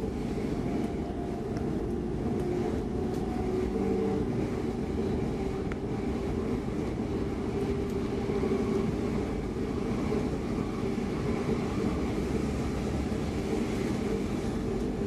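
Running noise of an X10 electric commuter train heard from inside the passenger car: a steady low rumble of wheels on the rails with a steady drone from the drive.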